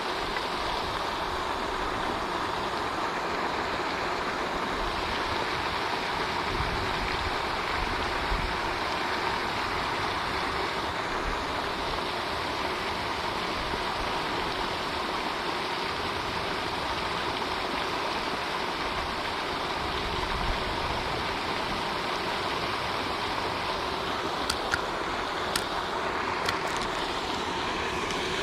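Pond fountain spraying and splashing, a steady rush of falling water. A few sharp clicks come near the end.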